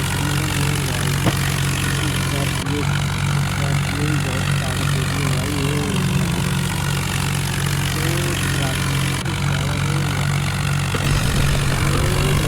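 Diesel vehicle engine running at a steady pitch, with a faint wavering pitched sound above it.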